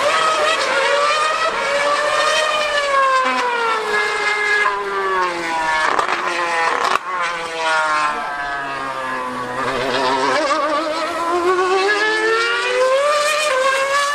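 2013 Formula One car's high-revving 2.4-litre V8 engine running on track. Its pitch climbs and falls repeatedly as it accelerates and slows, with a brief drop about seven seconds in.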